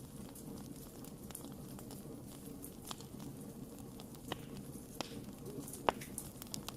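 Wood fire crackling: scattered sharp pops and snaps over a steady low hiss of burning, with the loudest pop a little before the end.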